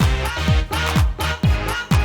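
Instrumental break of a 1990s ragga dance track: a thudding kick drum on every beat, about two a second, over a bass line and synth chords, with no vocals.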